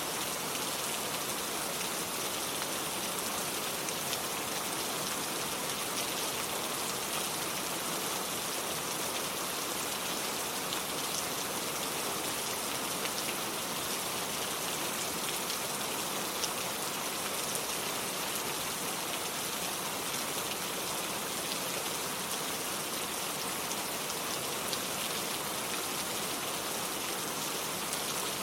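Steady rain falling, with scattered single drops ticking through it.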